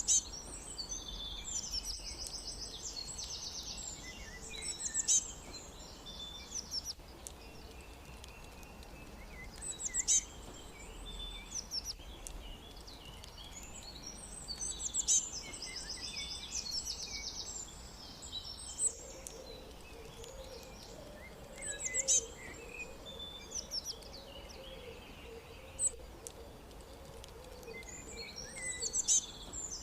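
Songbirds singing in a natural soundscape: a rapid, complex high-pitched song phrase comes back every few seconds, with scattered sharp chirps between, over a steady background hiss. A lower, pulsing call joins in the second half.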